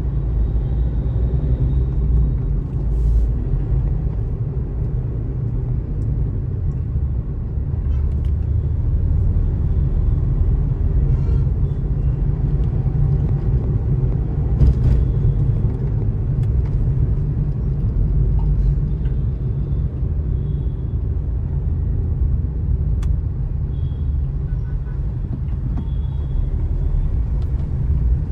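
Steady low rumble of a vehicle driving on a city road, with a few brief high-pitched tones near the end.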